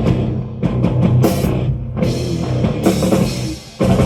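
Live metal band playing heavy rock with drum kit and distorted guitars between vocal lines, with a brief stop-and-hit break near the end.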